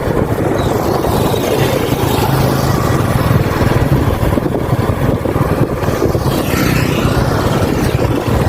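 Steady engine and road noise from a moving vehicle, running at an even speed.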